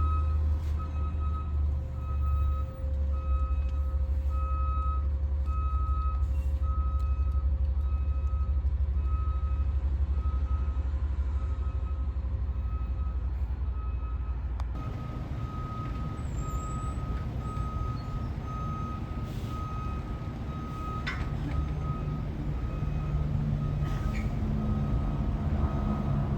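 Fire truck's backup alarm beeping steadily about once a second over the truck's low engine rumble as it reverses. About halfway through the sound changes abruptly, and the beeping carries on over a rougher engine sound.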